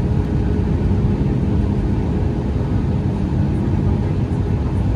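Steady cabin noise inside a Boeing 737 MAX 8 airliner: a constant low rumble of engines and rushing air with a faint hum, unchanging throughout.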